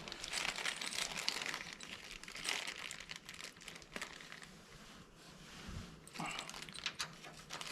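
Irregular crinkling and rustling with small clicks, as hardware or material is handled and sorted through.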